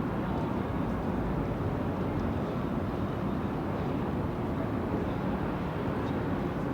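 Steady low rumble of city street ambience, mostly distant traffic, with a few faint short ticks.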